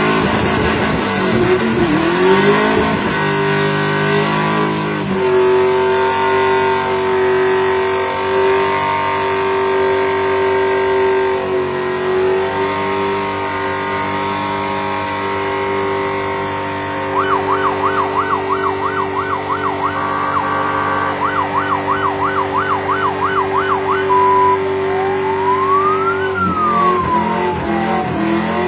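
A vehicle's horn and siren system sounding for a noise contest: a long, steady multi-tone horn blast, then a fast warbling siren yelp, then slow rising-and-falling siren wails near the end.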